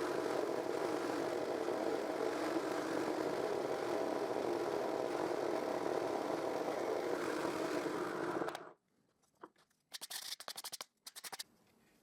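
A jigsaw mounted under a table runs steadily with its blade cutting through a wooden workpiece, then stops abruptly a little under nine seconds in. Near the end come a quick run of light clicks.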